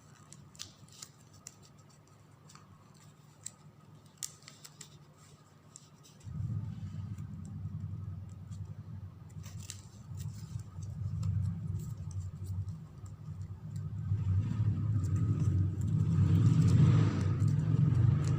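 Small light clicks and rustles of satin ribbon being handled and tucked. About six seconds in, a low steady motor hum starts suddenly and grows louder toward the end, drowning out the ribbon.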